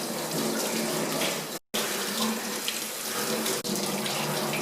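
Running water, a steady rush and splash, broken by a sudden brief cut about a third of the way in.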